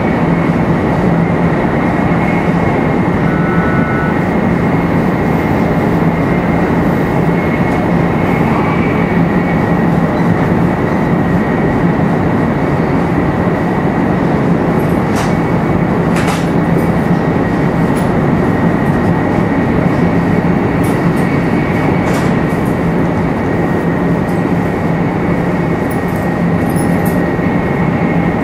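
Running noise of a 500 series Shinkansen motor car (527-7707) travelling at speed, heard from inside the car. It is a steady, dense rumble with a low steady hum and a thin high tone held throughout, and a few faint ticks in the second half.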